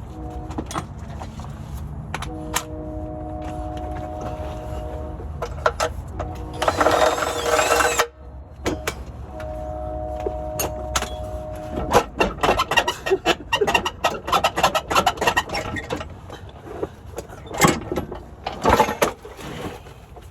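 A power tool running with a steady whine in two spells, and between and after them a noisy burst and a quick irregular run of sharp metallic clicks and knocks as a stubborn bolt is worked loose.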